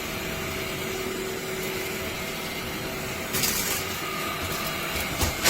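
Cordless stick vacuum running steadily, a motor hum under a rushing airflow noise, with a brief louder hiss about three and a half seconds in.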